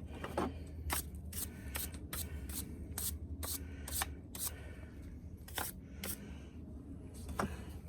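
A series of sharp clicks and taps, irregularly spaced at about two a second, over a low steady hum.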